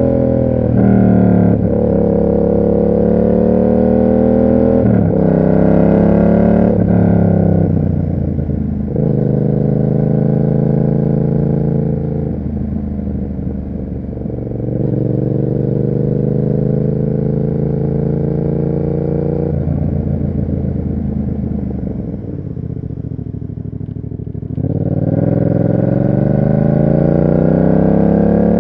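Yamaha MT-07's parallel-twin engine through an SC Project aftermarket exhaust, riding on the road. It revs up through three quick upshifts in the first few seconds, then holds a steady cruise. About two-thirds of the way in it eases off, then pulls up through the revs again near the end.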